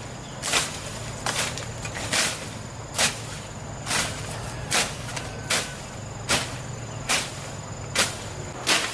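A broom sweeping in steady, even strokes: a short swish roughly every 0.8 seconds.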